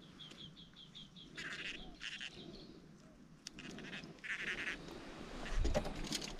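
A bird calling with a quick run of short, high chirps, about six or seven a second, over the first two seconds or so. A few short raspy bursts follow, and near the end come low knocks of handling on the wooden boat.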